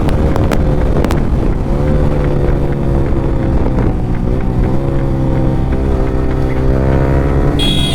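Yamaha R15 V3's single-cylinder engine running through an Akrapovic exhaust with no dB killer. Its pitch holds and shifts slightly up and down, with wind noise over the microphone. A short high tone comes in near the end.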